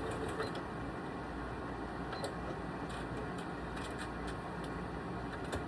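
Electric sewing machine running steadily as it stitches quilting lines through fabric, with a few faint ticks.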